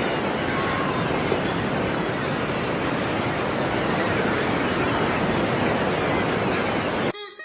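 A loud, steady rushing noise with faint high gliding calls in it, cutting off suddenly near the end. A quick run of short pitched animal calls starts just after the cut.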